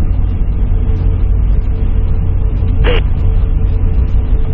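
Airliner cabin noise: a steady low rumble with a thin steady hum, heard from inside the passenger cabin. A brief, short noise comes about three seconds in.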